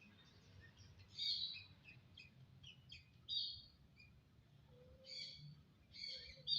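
Jalak (Indonesian starling) singing: a run of short whistled notes in several separate bursts, the loudest about a second in, about three seconds in and near the end.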